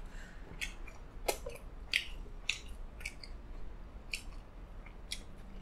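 A person chewing food close to the microphone, with soft wet clicks and smacks of the mouth repeating roughly every half second to a second.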